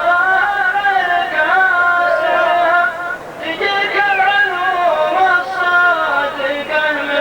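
A man's voice singing a mawwal in long, wavering, ornamented held notes, with a brief break for breath a little past the middle.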